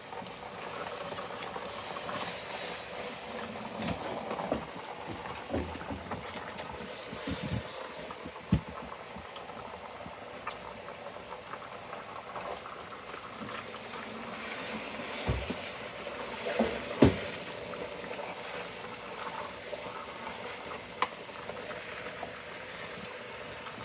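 Curry chicken, peppers and onions sizzling and bubbling in a crowded pot in their own juices, somewhere between frying and boiling, as a wooden spoon stirs and scrapes through it. A few sharp knocks of the spoon against the pot, the loudest past the middle.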